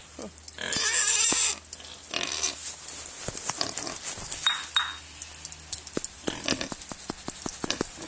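Pet pigs screaming in loud, harsh squeals, the longest about a second in and another about two seconds in, with a short, higher squeal near the middle. A run of sharp clicks follows near the end.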